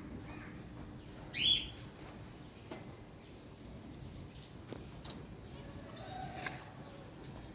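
Birds chirping outdoors over a steady background hiss, with one loud short chirp about a second and a half in and a thin high whistling call later on.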